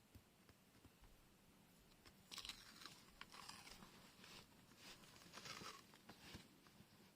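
Faint crinkling and rustling of washi tape rolls and their wrapping being handled, in a few short bursts from about two seconds in.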